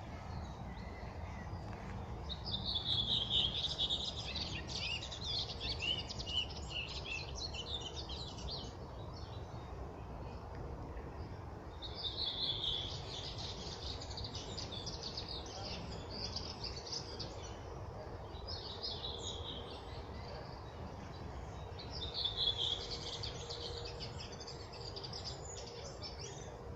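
A songbird singing four bouts of fast, high chirping phrases, the first and longest about two seconds in, the others around twelve, eighteen and twenty-two seconds in. A steady low rumble runs underneath.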